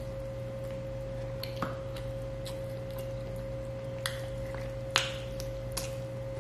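A man chewing grilled chicken with his mouth open: scattered wet mouth clicks and smacks, the loudest about five seconds in, over a steady electrical hum.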